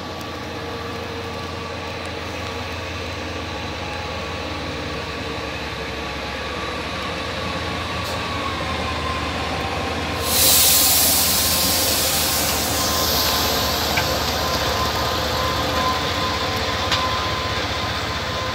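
A train running past, with steady tones over a rumble of running noise. About ten seconds in, a loud high hiss sets in suddenly and then slowly fades.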